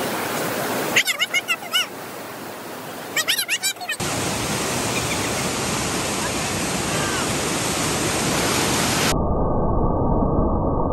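Steady rushing water. About a second in, and again near the three-second mark, come two short bursts of rapidly repeated high calls or cries. The sound changes abruptly at about four seconds and again near nine seconds, where the shot appears to change.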